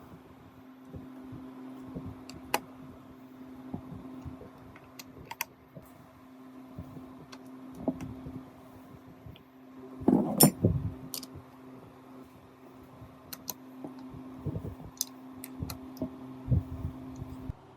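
Light metallic clicks and taps of small gearbox parts being handled, with a louder clatter of knocks about ten seconds in, over a steady low hum that cuts off near the end.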